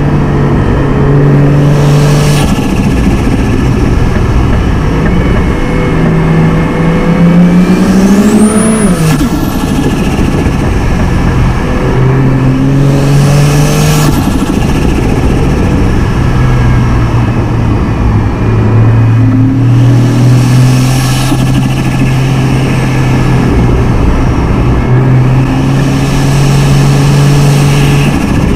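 Turbocharged car engine cruising under light load on a winding road, with one rise in revs about seven seconds in: a high turbo whistle climbs with it, then both drop off sharply as the driver lifts or changes gear. The rest is a steady engine note at cruising revs.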